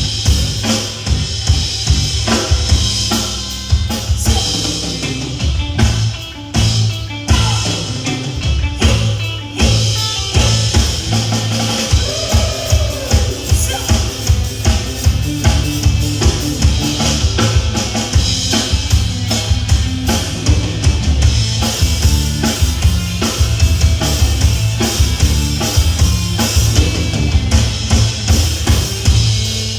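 Live band music with a driving drum-kit beat of bass drum and snare over bass and other instruments.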